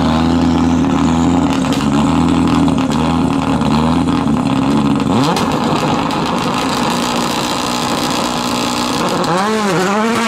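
Rally car engine held at steady high revs on the start line, then launching about five seconds in with a quick rising rev and accelerating away. Near the end an engine is blipped up and down twice.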